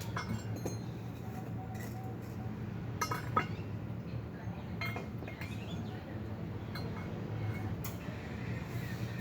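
Scattered light metallic clinks and taps of metal parts being handled and knocking together, a few at a time, over a steady low hum.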